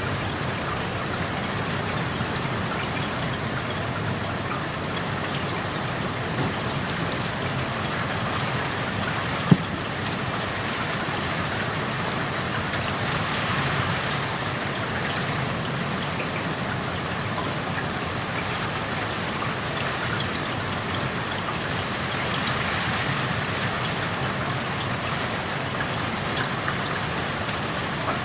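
Steady rain falling and pattering on surfaces, heard through an open window. A single sharp tap stands out about nine and a half seconds in.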